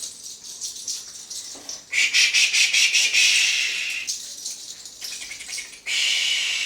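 A bundle of fresh healing herbs (montecito) being swept and slapped over a person's body in a limpia, the leaves rustling in quick repeated strokes. The strokes are faint at first, loud from about two seconds in, and there is another loud burst near the end.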